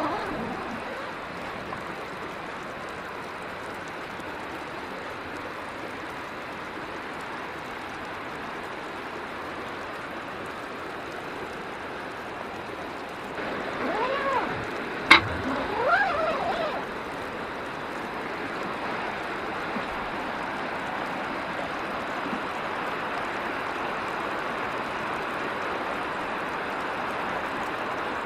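Steady rushing of a river's flowing water. About halfway through, a few short rising-and-falling pitched sounds and one sharp click are heard.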